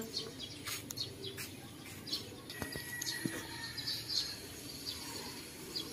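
Birds chirping: short, high chirps scattered throughout, over a faint outdoor background.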